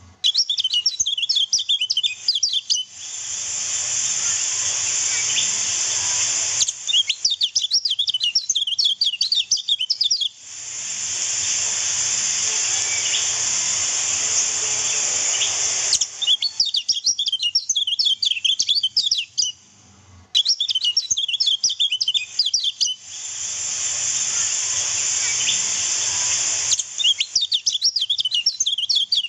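Kecial kuning white-eye song: fast runs of high, twittering chirps in bursts of a few seconds. Three times the chirping gives way to a few seconds of steady rushing water sound.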